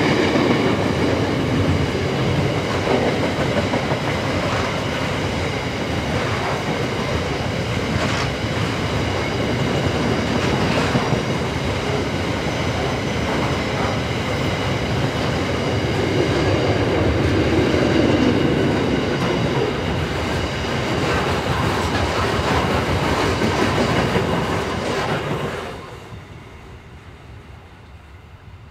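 A train rolling past close by: steady rumble of wheels on rail, scattered sharp clicks as the wheels cross rail joints, and a faint high ringing from the wheels. The sound drops away suddenly near the end.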